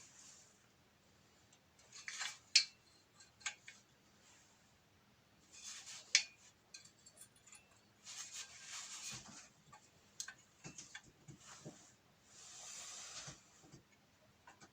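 Faint, scattered metallic clinks and knocks, as of metal pieces being handled, with a few short bursts of soft hiss in between. The grinder is not running.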